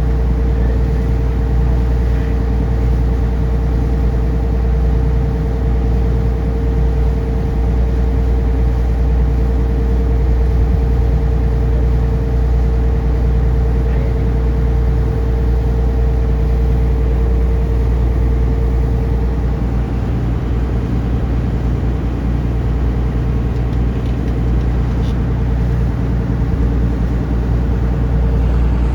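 Taxi boat's engine running steadily with a deep, constant drone. A steady whine rides on top and fades out about two-thirds of the way through.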